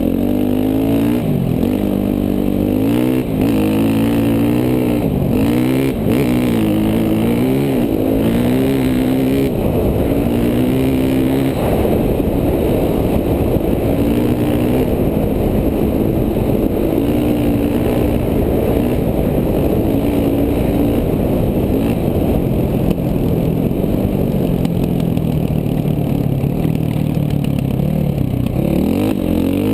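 KTM 450 dual-sport dirt bike's single-cylinder four-stroke engine under way. Its pitch climbs and drops again and again for the first dozen seconds or so, holds steadier through the middle, then climbs again near the end.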